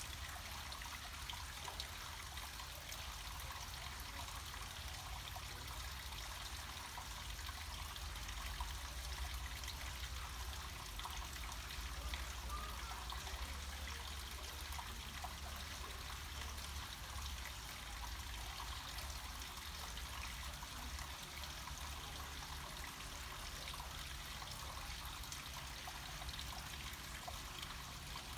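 Water flowing down a small mountain cascade: a steady trickling, splashing flow with a low rumble underneath.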